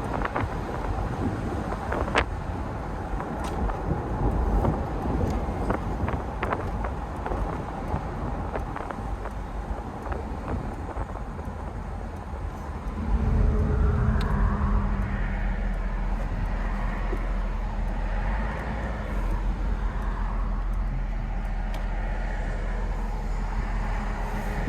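1988 Mercedes-Benz 560SL's V8 and road noise while driving, with scattered clicks and knocks in the first half. About thirteen seconds in it gets louder and a steady low drone sets in.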